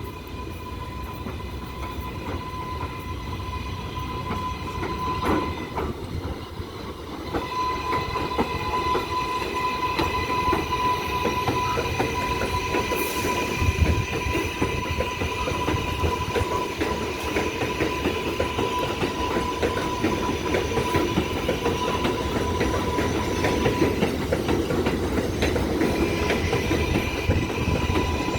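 R188 subway train running through the station, growing louder over the first eight seconds and then holding steady, with a constant high whine and several higher tones above it over a dense rumble.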